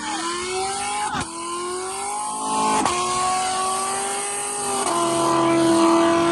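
Car engine accelerating hard through the gears of a 10-speed automatic. The pitch climbs, drops at each of three quick upshifts, about a second, three seconds and five seconds in, then holds steady.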